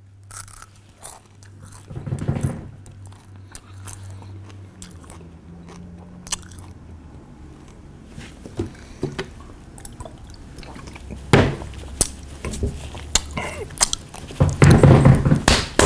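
Crunching and chewing of a whole scorpion in the mouth: many small crisp crackles, with a few louder crunches and a louder noisy burst near the end.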